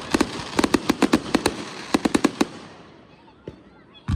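Consumer fireworks going off: a rapid string of sharp bangs and crackles over a hiss, stopping about two and a half seconds in, then one deep boom at the very end.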